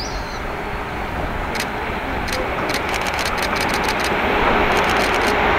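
A JR 185 series electric train approaching on a curve, its running noise growing steadily louder as it nears. A quick run of sharp clicks from about a second and a half in, and a steady hum joining near the end.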